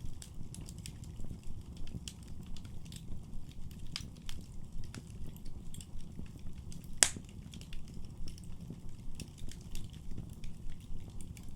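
Wood fire burning in a fireplace: a steady low rumble of flames under scattered sharp crackles, with one loud pop about seven seconds in.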